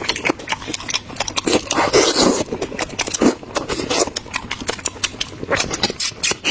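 A person biting and chewing food close to the microphone, with dense crackly mouth clicks throughout and a few louder patches.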